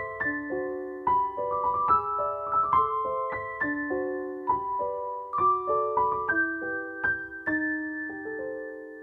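Background piano music, gentle chords played at an even pace, with the last chord left to ring and fade away near the end.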